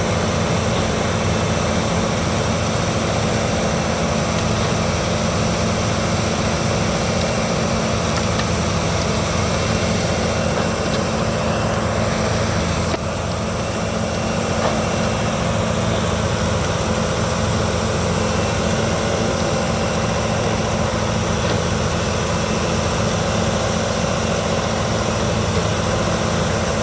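Albach Diamant 2000 wood chipper running steadily, its engine and drum making an even machine drone, with a brief slight drop in level about halfway through.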